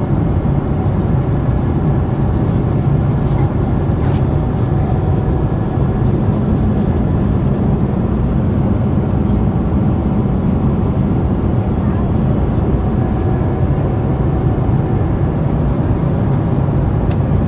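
Steady low rumble of engine and air noise inside a passenger aircraft cabin, even and unbroken.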